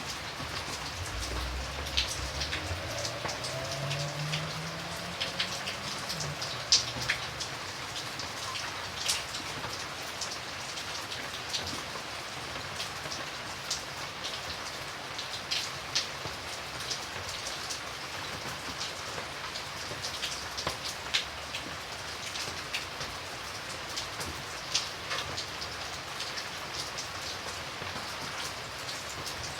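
Steady rain falling, with frequent close drops ticking sharply on a surface. A faint low rumble rises in pitch during the first few seconds.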